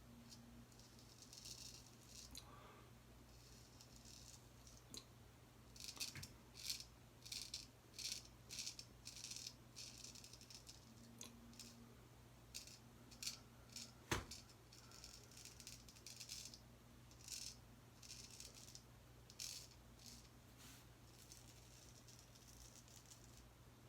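Gold Dollar 208 straight razor scraping through lathered stubble, faintly, in runs of short scratchy strokes, with one sharp click about fourteen seconds in.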